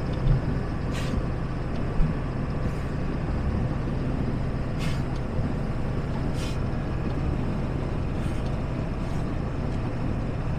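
Converted ambulance camper truck running: a steady low rumble of engine and road noise, with a few faint clicks now and then.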